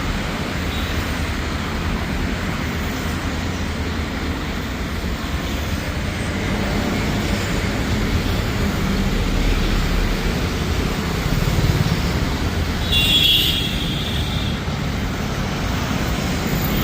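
Jet airliner's engines at takeoff power, a steady rumbling noise that grows somewhat louder about two-thirds of the way through and then eases, with a brief high-pitched sound just after the loudest part.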